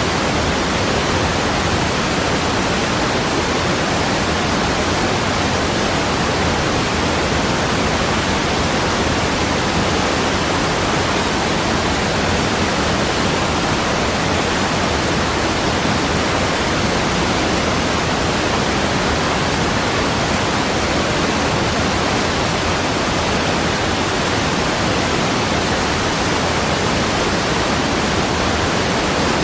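Steady rushing water like a waterfall, an even hiss across all pitches that never changes.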